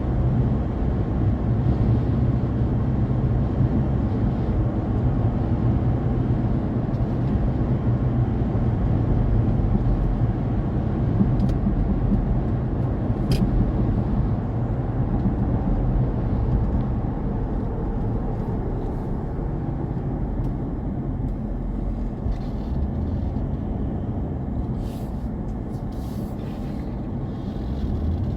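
A car driving at speed: a steady low rumble of road and wind noise.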